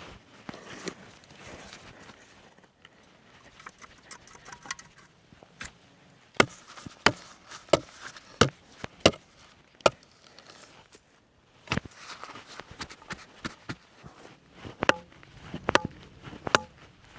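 A series of sharp knocks, irregular at first and then coming about every half second for a few seconds, with a quieter run of lighter taps near the end.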